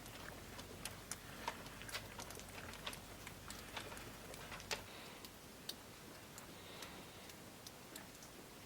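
Faint, irregular small clicks and ticks, several a second at first and thinning out, over a low background hiss.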